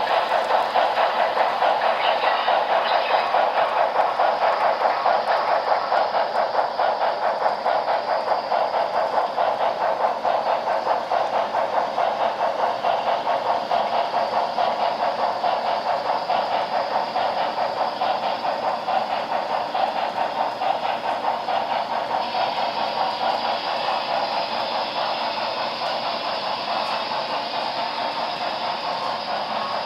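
HO scale model steam locomotives' sound decoders chuffing in a fast, even rhythm with steady hiss, thin and lacking bass as from the models' small onboard speakers. The chuffing slowly fades, and the hiss grows brighter a little past two-thirds of the way through.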